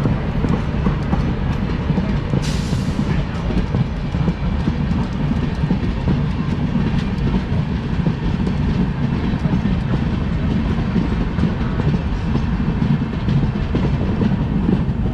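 Passenger train running along the track: a steady, loud rumble of wheels and coaches with some clickety-clack, and a short hiss about two and a half seconds in.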